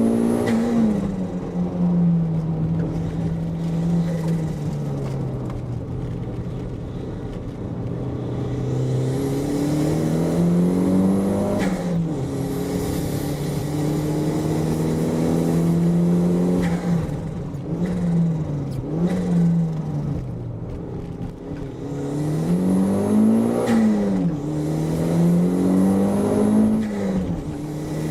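Toyota MR2's engine driven hard on a twisty course: the revs climb and fall again and again. There are sharp drops in pitch at the gear changes and quick up-and-down swings in the revs partway through.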